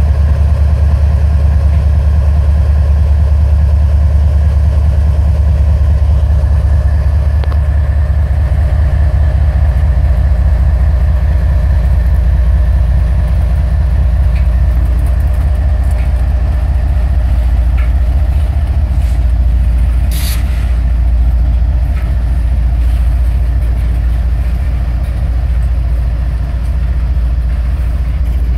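CSX manifest freight train passing close by: the steady low drone of its diesel locomotives runs under the rumble of freight cars rolling over the rails. A single brief, sharp noise stands out about twenty seconds in.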